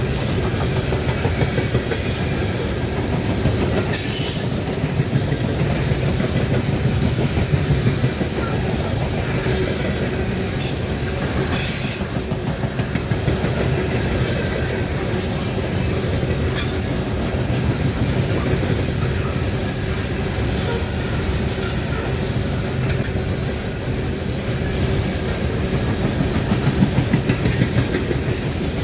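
Loaded coal train rolling past, a steady heavy rumble of wheels on rails with clicks over the rail joints. A brief high wheel squeal a little after two-thirds of the way through.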